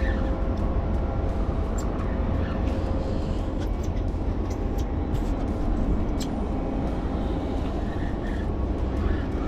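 Steady low rumble of wind and engine noise on an offshore fishing boat, with a faint steady hum and a few light clicks.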